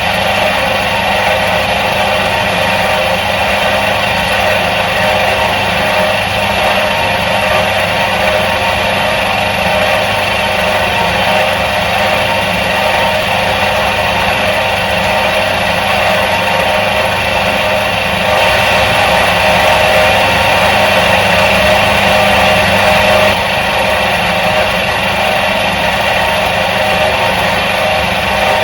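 Electric motor of a 1977 Soviet washing machine running steadily, a continuous hum with a mix of fixed tones, a little louder for a few seconds past the middle.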